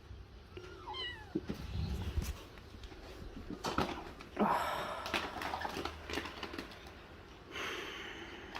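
A cat meowing softly a couple of times, the first about a second in and a louder one around the middle, with light knocks and rustling between.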